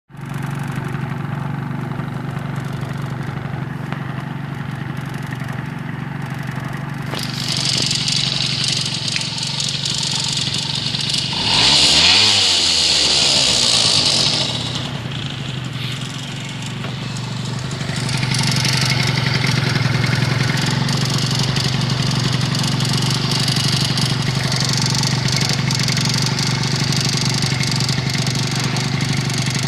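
Honda Dio AF34 scooter's 49 cc two-stroke engine running, with some kind of crackle that the owner takes for an unwanted extraneous noise. The engine picks up speed about eight seconds in, is loudest around twelve to fourteen seconds, drops back near fifteen seconds, and rises again from about eighteen seconds.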